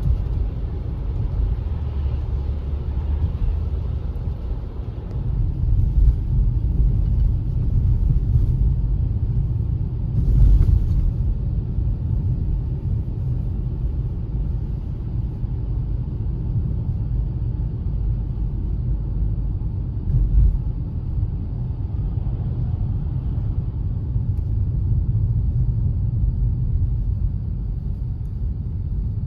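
Car on the move: a steady low rumble of road and engine noise, with a few bumps. The loudest bump comes about ten seconds in.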